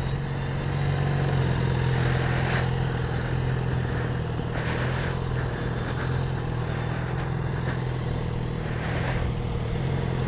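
Motorcycle engine idling steadily at one pitch, with no revving.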